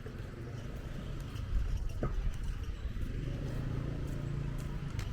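A motor vehicle's engine humming, strongest in the second half, over a low outdoor rumble, with a couple of brief clicks.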